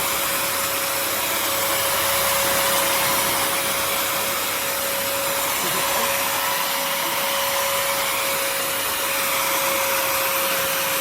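Bissell CrossWave HydroSteam Pet wet-dry vacuum running steadily with steam mode on, scrubbing a floor stain. It gives an even rushing noise over a constant mid-pitched whine.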